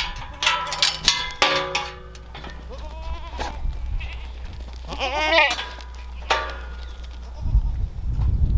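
Kiko goats bleating: a few separate calls, the loudest about five seconds in with a wavering pitch. A low rumble comes in near the end.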